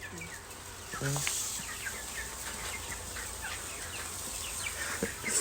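Chickens calling: a steady run of short, high chirps, with one low cluck about a second in.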